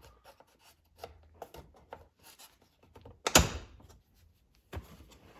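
Plastic console trim being pried up with a trim removal tool: light clicks and rubbing, then one loud sharp snap a little past three seconds in as the retaining clips let go, and a smaller knock near the end.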